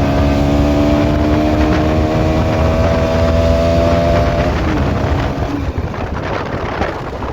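Motorcycle engine running under way at a steady speed, its pitch edging slightly up, then dropping away about five seconds in as the throttle eases, leaving rushing wind and road noise.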